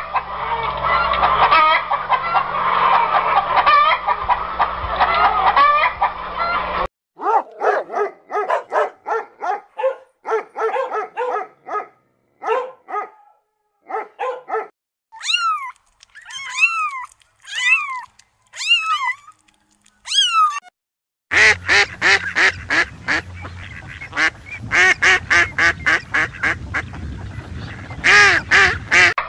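Farm poultry calling in a string of separate clips: a dense flock din first, then short repeated honking calls, then high arching calls, then another dense burst of calls.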